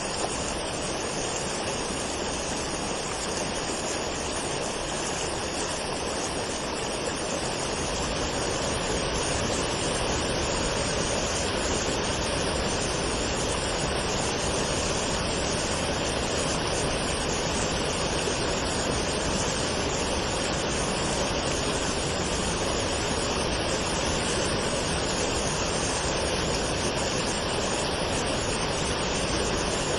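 Waterfall: water falling and rushing steadily, a little fuller and deeper from about eight seconds in.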